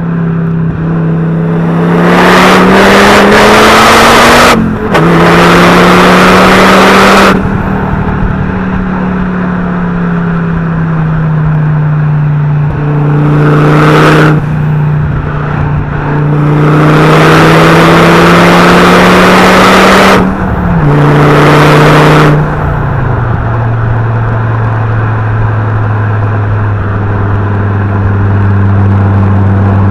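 Fiat Coupé 20v Turbo's five-cylinder turbo engine and exhaust accelerating through the gears. There are several loud pulls with the pitch climbing, each broken by a quick drop at a gear change. It then settles to a steady, lower drone for about the last third.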